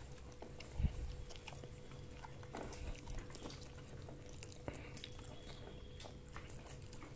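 Faint chewing and biting, with small scattered clicks of food being handled and a low thump about a second in.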